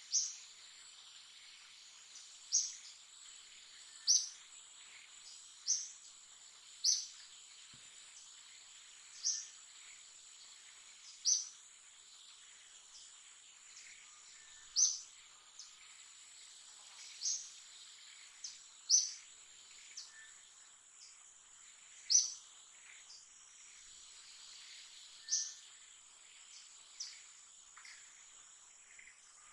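Outdoor insect ambience: a steady high-pitched insect drone, with a short, sharp, high chirp or call repeated about every one to three seconds.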